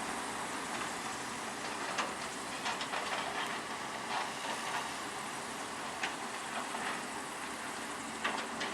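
Heavy construction machinery at work: a steady hissing machine noise with sharp metallic knocks at irregular intervals, about half a dozen of them.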